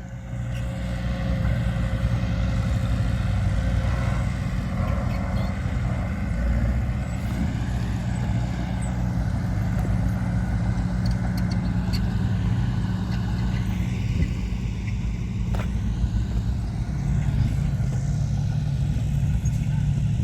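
Diesel engine of heavy earthmoving machinery running steadily, with one sharp clank about three quarters of the way through.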